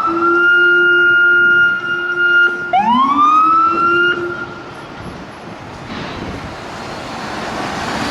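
Police car siren with a Federal Signal Rumbler: two manual wail sweeps, each rising quickly and then holding a steady high tone, with the Rumbler's deep low tone sounding underneath. The second sweep cuts off about four seconds in, leaving traffic noise that grows louder.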